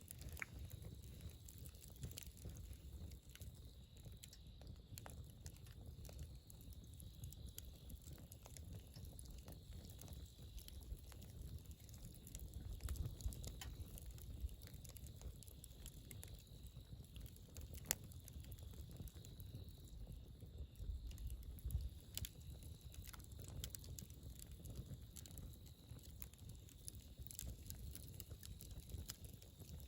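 Wood campfire crackling: scattered sharp pops and snaps over a steady low rumble, with a few louder pops about 13 and 18 seconds in.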